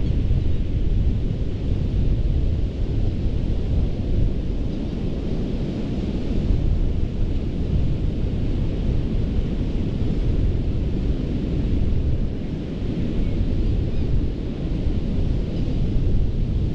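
Ocean surf washing onto a sandy beach: a steady, heavy low rumble with a fainter hiss of breaking water above it that swells and eases.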